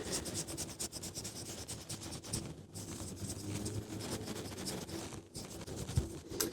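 Makeup brush bristles being rubbed and wiped against a makeup wipe: a soft, dense scratching.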